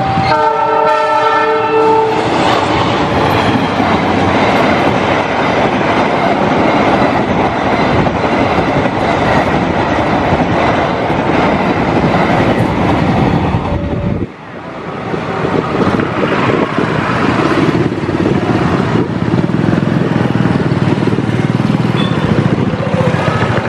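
Train horn sounding in a few short blasts, then a train passing close by with a loud, steady rush and rumble of wheels on the rails. The sound drops suddenly about fourteen seconds in and builds again.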